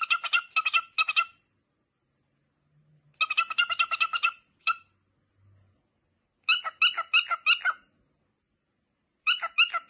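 Lutino cockatiel chattering in four bouts of rapid pulsing chirps, about seven a second, each bout a second or two long with short silences between.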